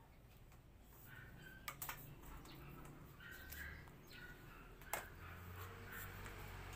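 Faint bird chirps, short and repeated several times, with three sharp knocks: two close together a little under two seconds in and a louder one about five seconds in.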